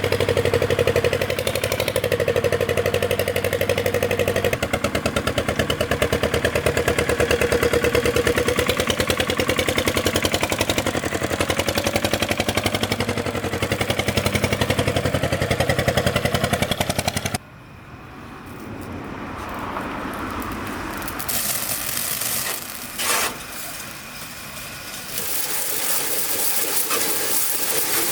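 Engine of an old restored farm vehicle running with a fast, even beat for about seventeen seconds, then cut off abruptly. After that comes a quieter hiss that rises again, with one brief louder sound about twenty-three seconds in.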